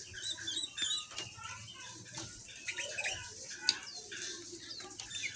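Birds chirping in short, quick notes and rapid sweeping calls, with scattered short clicks or taps.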